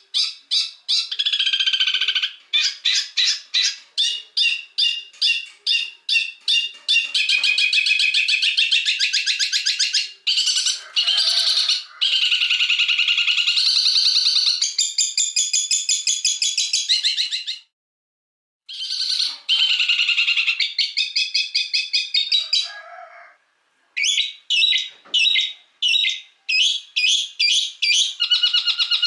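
Recorded songbird song, a harsh, sharp 'masteran' tutor track: fast runs of repeated high chirps and trills, broken twice by a brief dead silence where the recording is cut.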